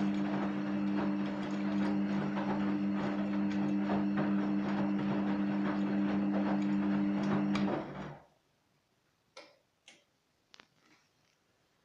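Gorenje WA50060 washing machine's drain pump running with a steady hum and crackly ticking as it pumps out water, then cutting off abruptly about eight seconds in. A few faint clicks follow.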